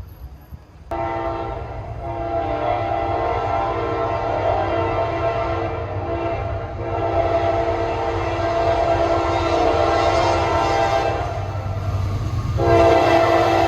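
Diesel locomotive air horn blowing a chord of several notes at once, starting suddenly about a second in, in long blasts with short breaks and coming back louder near the end, over the low rumble of the approaching train.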